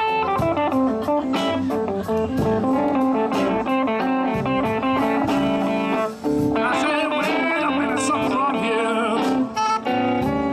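A live blues band plays a slow blues, with an electric guitar playing a lead fill of quick melodic runs over bass and drums between the vocal lines.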